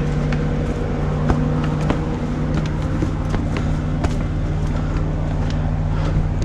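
A steady engine drone holding one low pitch, with a few scattered short clicks.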